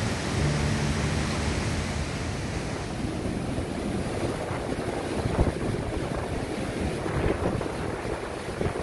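Bomburuella waterfall rushing steadily, with wind buffeting the microphone.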